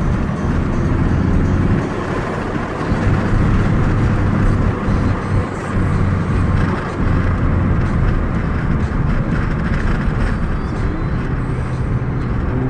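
Car engines running with a steady low drone and rumble.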